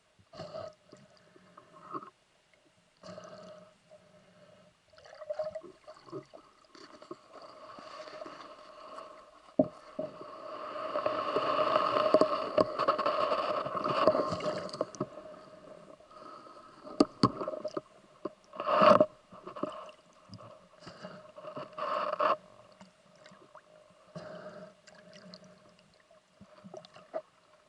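Muffled underwater sound of moving water and bubbles, with scattered knocks and scrapes and a louder swell of churning water in the middle.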